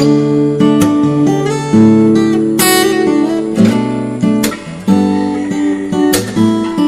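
Background music: acoustic guitar strummed and picked, with held chords changing about every second.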